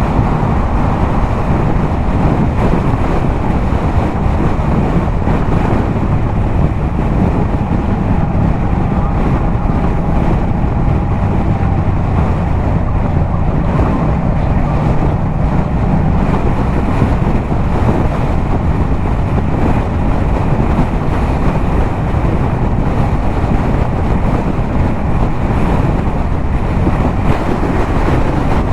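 Yamaha MT-07's parallel-twin engine through a LeoVince exhaust, held at a steady highway cruise, mixed with heavy wind rushing over the camera microphone.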